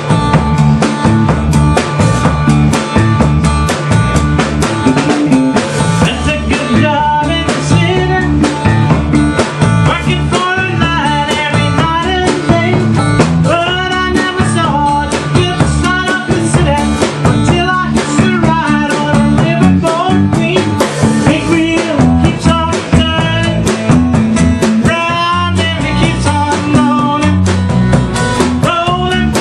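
A band playing: a drum kit keeping a steady beat under bass and guitar, with a melodic lead line coming in over the top about seven seconds in.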